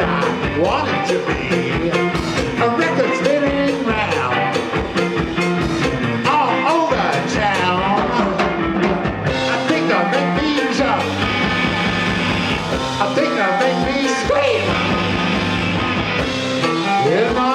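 A three-piece rock band playing live, with a steady drumbeat under wavering, gliding pitched lines, in a passage before the vocal comes in.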